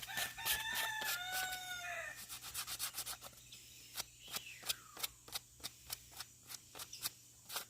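Hand sanding with sandpaper on the canoe's fiberglass repair: quick back-and-forth strokes, about three a second. A drawn-out bird call sounds over it in the first two seconds.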